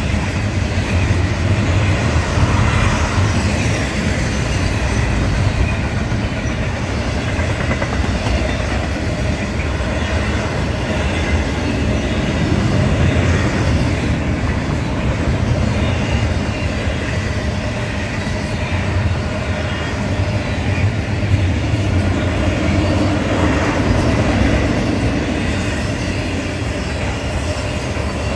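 Intermodal freight train rolling past at close range: double-stack container well cars and trailer-carrying flatcars, their steel wheels running on the rails in a loud, steady rolling noise.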